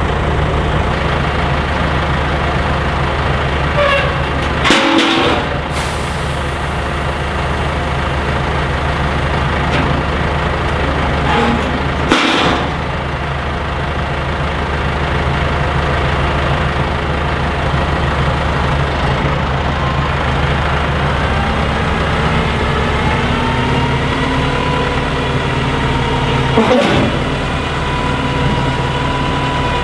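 Heavy diesel truck engine running steadily. Three times a short, sharp noise cuts across it while the engine note briefly drops.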